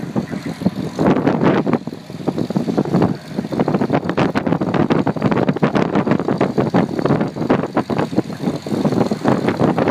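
International 460 tractor engine running loud and hard under load during a pull, with a rapid, choppy exhaust.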